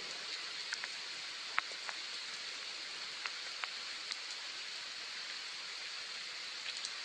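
Soft rain falling steadily: an even hiss, with single nearby drops ticking now and then.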